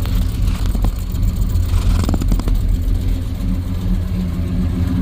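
Ford F100's 390 V8, converted to fuel injection, idling steadily while it warms up from a cold start.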